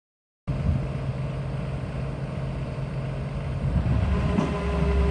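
Diesel engine of a Komatsu PC210LC hydraulic excavator running, cutting in abruptly about half a second in. About four seconds in the engine note deepens and grows louder, a steady whine joins, and there is a light knock.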